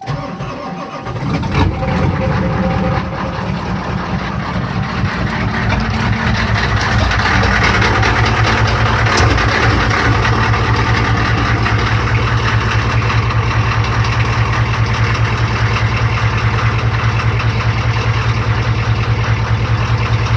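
Ford 6.9 IDI V8 diesel cold-starting with its glow plugs not working: it cranks and catches about a second and a half in, grows louder over the next few seconds, then settles into a steady idle.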